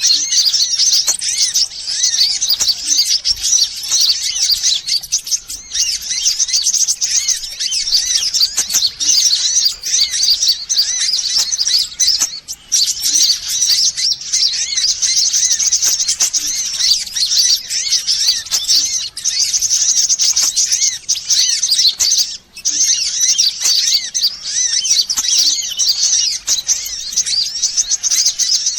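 A dense, unbroken chatter of high-pitched sunbird chirps and twitters, a bird-lure recording played to draw sunbirds in. It dips briefly twice, about twelve and twenty-two seconds in.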